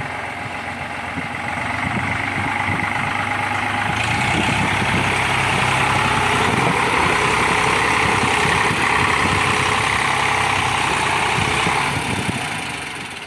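Tractor diesel engine running hard, climbing a steep bank. It gets louder about two seconds in, stays loud, then eases off near the end.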